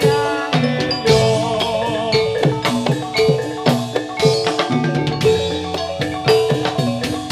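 Javanese gamelan music for a jathilan dance: bronze metallophones struck in a steady, fast rhythm of ringing notes, with drum strokes underneath.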